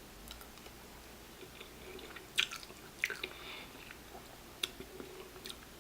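A person chewing spicy noodles close to the microphone, with a few short sharp mouth clicks.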